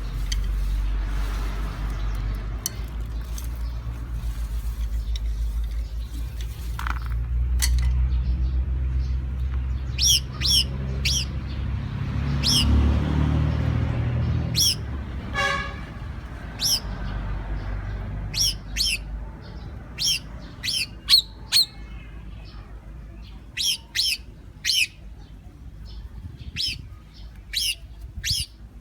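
Birds chirping: many short, sharp high notes, repeated more and more often through the second half, with one longer call in the middle. A low rumble runs under the first half and fades out.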